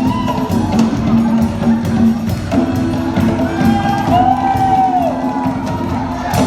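Live band playing a disco song with a steady beat, with some crowd cheering.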